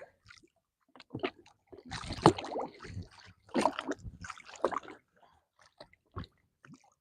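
Water sloshing and splashing close by in small irregular bursts, as a released catfish is held and nudged at the surface beside the jet ski.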